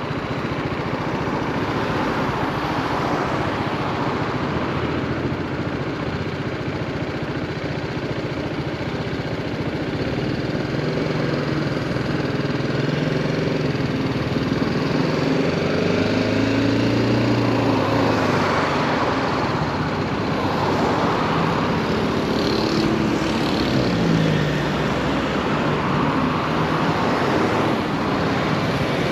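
2018 BMW G310R motorcycle's single-cylinder engine under way, over steady wind and road noise; from about ten seconds in its note rises and falls repeatedly as the rider speeds up and slows in traffic.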